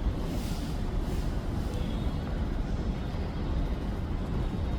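Taiwan Railway E1000 push-pull express train running through a station, a steady low rumble.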